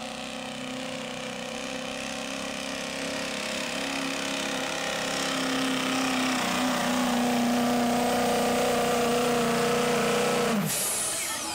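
Diesel pickup truck engine running under heavy load at high, steady revs during a sled pull, growing louder as it goes. Near the end the engine note and a high whine drop off sharply as the throttle is let off.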